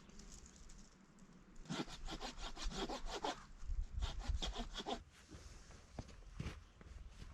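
Hand saw cutting through wood: a run of quick rasping strokes lasting about three seconds, then a few separate strokes near the end.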